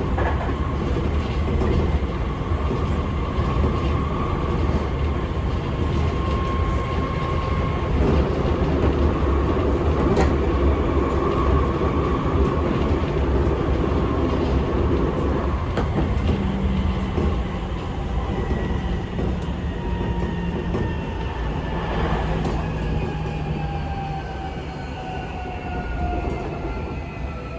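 Seibu 6000 series train running, heard from inside the car: a steady rumble of wheels on rail with occasional joint clicks. From about halfway, the whine of the Mitsubishi SiC-VVVF inverter and traction motors comes up in several tones that slowly fall in pitch as the train slows.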